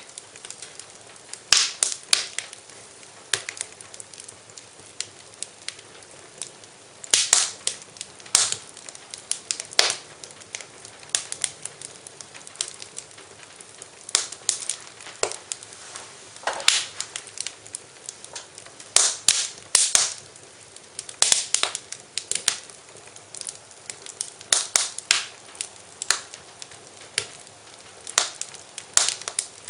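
Wood fire in a fireplace crackling, with irregular sharp pops and snaps, some in quick clusters, over a faint steady hiss.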